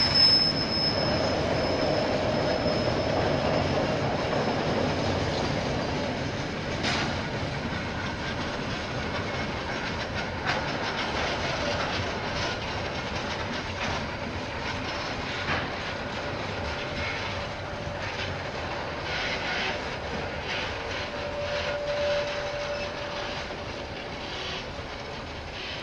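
Train wagons rolling past on the rails, with a high wheel squeal that fades within the first few seconds, brief lower squeals, and occasional clacks of wheels over the rails. The rolling rumble slowly fades.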